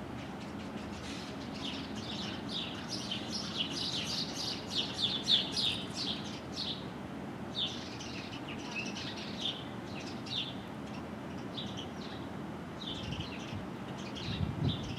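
Songbirds at a feeder chirping: a quick run of short, high chirps for several seconds, then scattered calls, over a steady low background rumble.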